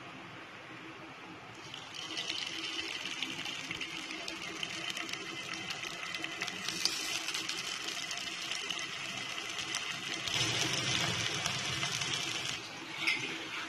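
Marinated prawns sizzling and crackling in hot oil in a frying pan. The sizzle starts a couple of seconds in as the first prawns go in and grows louder as the pan fills. It drops off shortly before the end, with one sharp click.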